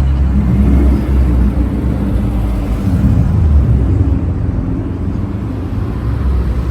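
Car engine running nearby with a loud, low exhaust rumble, its pitch wandering up and down slightly.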